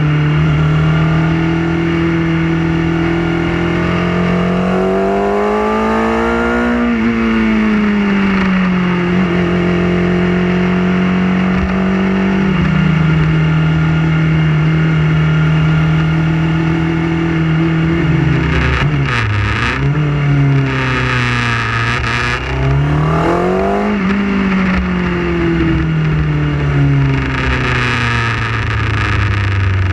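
Motorcycle engine heard from on board while riding through town. The engine note climbs and falls several times as the bike speeds up, shifts and slows, with rushes of wind noise on the microphone in the second half.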